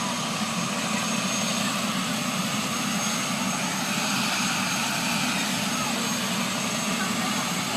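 Helicopter running steadily on the ground before takeoff: an even, continuous rotor and engine drone.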